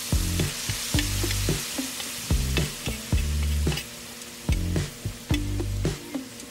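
Steak, peppers and onions sizzling on a propane-heated steel Firedisc, with a metal spatula clicking and scraping against the disc as the food is stirred. Background music plays underneath.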